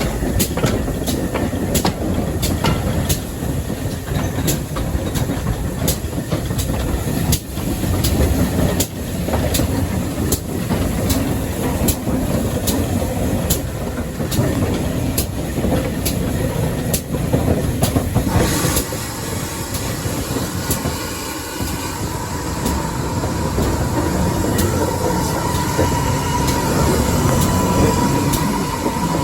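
Heritage railway train running along the line, a steady rumble with the clickety-clack of wheels over rail joints. About 18 seconds in the clicking stops and the sound smooths out, and a faint steady whine comes in near the end.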